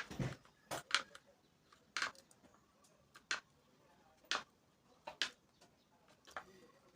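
Flat screwdriver prying open the crimped tabs that hold a radiator's plastic top tank: a series of short, sharp clicks at irregular intervals, about one a second, some coming in quick pairs.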